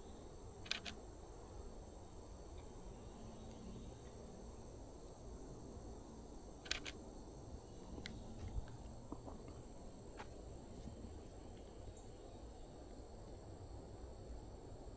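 Steady high-pitched drone of crickets. Over it, a camera shutter clicks in quick pairs, once near the start and again about seven seconds in, with a couple of fainter clicks after.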